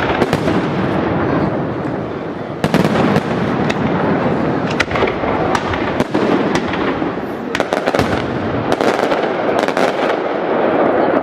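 Aerial fireworks display: a steady barrage of shell bursts, with sharp bangs and dense crackle running together without a break.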